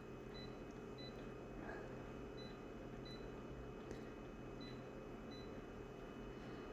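Faint, short high-pitched beeps or cheeps, repeating irregularly about once every half second to a second, over a low steady hum, with a faint click about four seconds in.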